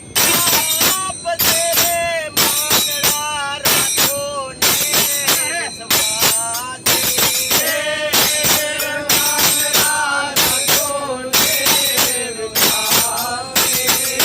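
Group of voices singing a devotional bhajan, accompanied by hand percussion keeping a steady beat of about two strikes a second.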